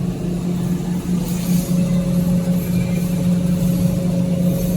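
Tissue paper converting machinery running with a steady low hum. A thin higher tone joins about a second and a half in.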